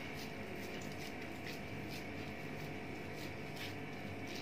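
Faint soft squelching of raw minced meat being scooped and handled by hand in a bowl, a scatter of short soft sounds over a steady low room hum.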